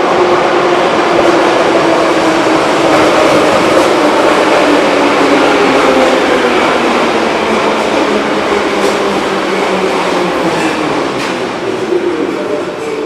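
Metro train pulling into an underground station and slowing down: the electric motors' whine falls slowly in pitch over the rumble of the wheels, with a few sharp clicks from the wheels and track near the end.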